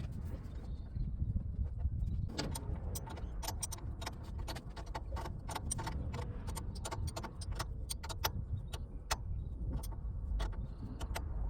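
Hand tools and a threaded air fitting clicking and tapping irregularly as the fitting is worked into a truck air dryer, over a steady low rumble.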